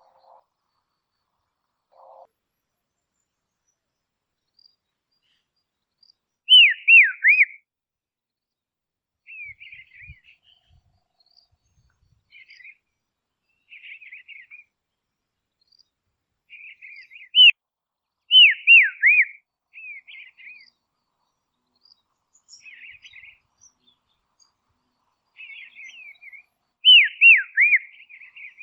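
Dusky robin calling: three loud phrases of quick falling whistled notes, about ten seconds apart, with softer scratchy twittering phrases between them.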